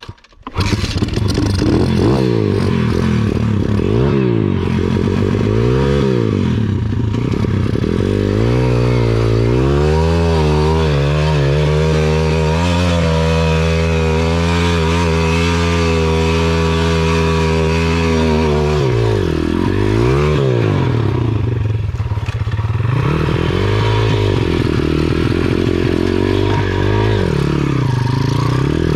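Small single-cylinder four-stroke pit bike engine revving hard under load on a steep climb, its pitch rising and falling with the throttle. It is held steady at high revs for several seconds in the middle, then drops and picks up again.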